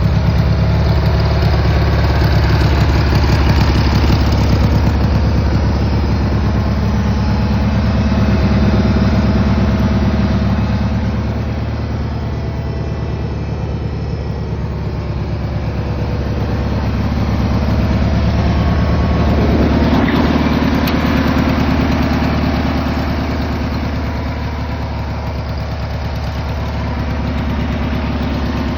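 Engine of a 1981 Cub Cadet 782 garden tractor running steadily, its level swelling and easing, louder about a third of the way in and again about two thirds through.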